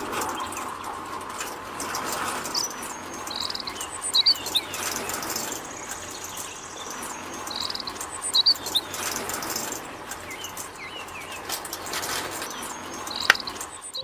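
Birds chirping now and then over a steady outdoor background hiss.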